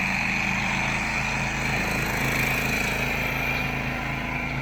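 Home-built zero-turn ride-on lawn mower running steadily while mowing, its engine droning with a steady high whine over it.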